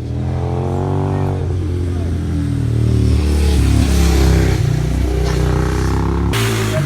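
Racing motorcycle engine revving and accelerating, its pitch dropping and then climbing as it pulls away, loud throughout; the sound changes abruptly near the end.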